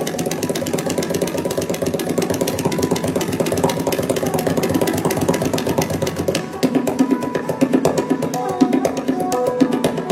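Tabla played in fast, even strokes that imitate a running railway train. Lower, fuller strokes come in about two-thirds of the way through.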